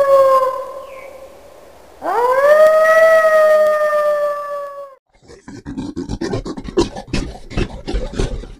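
An animal howling: a long, smooth call fading out, then a second howl that swoops up in pitch and holds steady for about three seconds. About five seconds in it gives way to a quick, irregular run of short, rough breaths.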